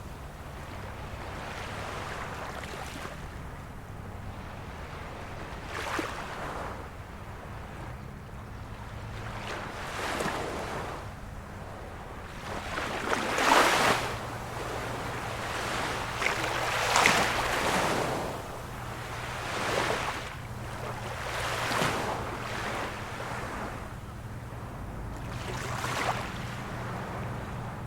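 Small waves of a calm sea washing in one after another every few seconds, with two stronger washes in the middle. A faint steady low hum runs underneath.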